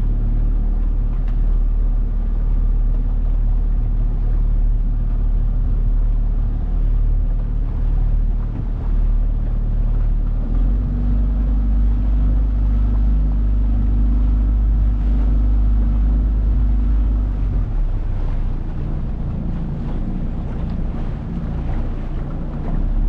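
Small boat's 9.8 hp outboard motor running steadily under way, with wind on the microphone. Its note shifts about ten seconds in and returns to the earlier note about seven seconds later.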